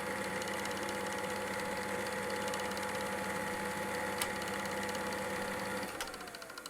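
A small motor-driven machine running with a steady hum and whine. About six seconds in it is switched off with a click, and its pitch falls as it runs down, with quick ticks following.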